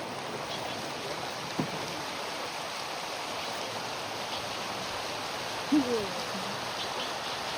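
Steady rush of river water flowing around a bamboo raft. A single short knock sounds about a second and a half in, and a brief voice sound comes later.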